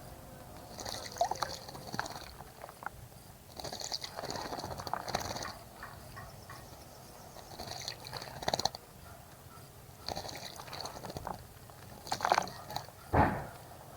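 Water splashing in a bird bath as birds bathe, in short bursts that grow loudest near the end. Repeated high chirping phrases come every few seconds in the background.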